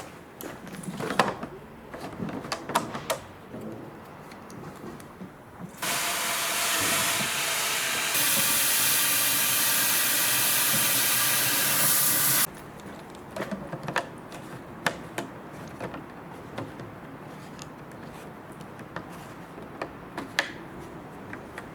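A loud, steady hiss starts suddenly about six seconds in, grows louder a couple of seconds later and cuts off abruptly after about six and a half seconds. Light clicks and knocks of handling come before and after it.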